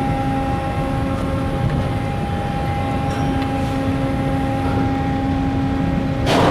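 Car ferry Sunflower Gold's engines and machinery running, a steady low rumble with a constant droning hum as she gets under way. Near the end a brief, loud rush of noise cuts across it.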